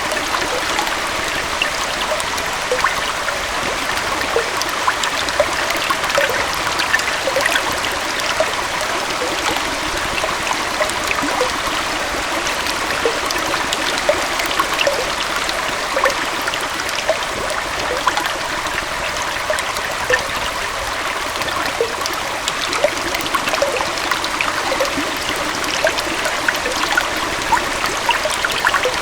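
Small waterfall and stream flowing steadily, a continuous rush of water with many small splashes and trickles through it.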